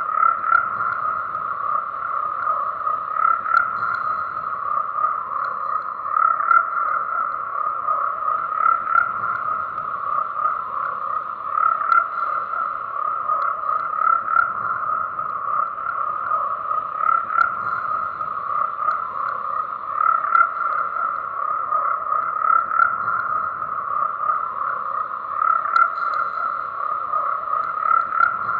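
A chorus of frogs croaking continuously, many calls overlapping into a steady, dense mass of sound with no pause.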